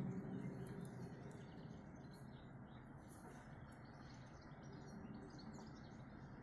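Small birds chirping and twittering faintly over a steady background hiss, the low drone of the 'sky sound' dying away just at the start.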